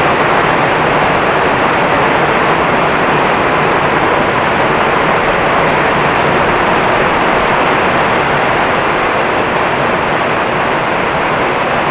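Heavy tropical rain pouring down in a steady, loud roar of falling water.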